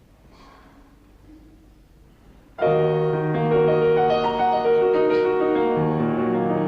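Faint recording hiss, then about two and a half seconds in a piano comes in loudly with the introduction to a song, playing sustained chords with a melody over them.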